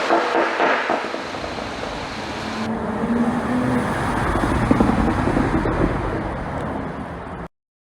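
Porsche Cayenne Coupe's turbocharged 3.0-litre V6 engine and exhaust running while under way, with road and wind noise mixed in. The sound cuts off abruptly near the end.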